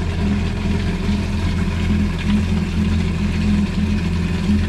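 Yamaha FX Cruiser jet ski's engine idling steadily out of the water, running on a garden-hose flush to clear salt water from its cooling system.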